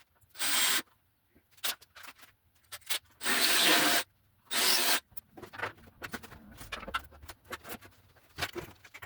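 Spot weld cutter in a drill cutting into sheet steel in three short bursts, the longest nearly a second, followed by scattered light clicks and taps of metal being handled.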